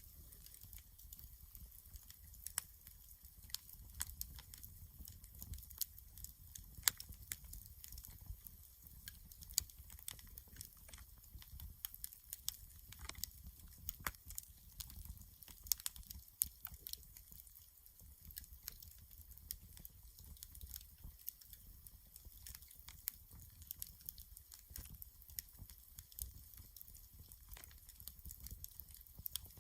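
Wood campfire crackling, with frequent irregular snaps and pops over a faint low rumble.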